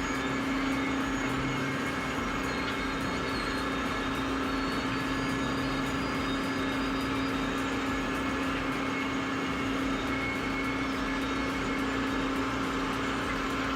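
Heavy machinery running steadily: an even engine drone with a constant hum that holds one pitch throughout, no revving or impacts.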